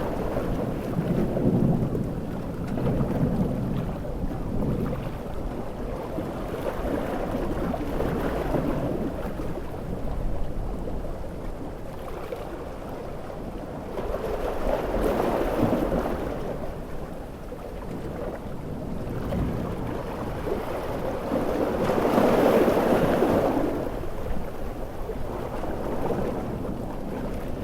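Coastal storm ambience: sea waves surging and breaking in swells every several seconds, the biggest about four-fifths of the way through. Low thunder rumbles near the start, under heavy rain.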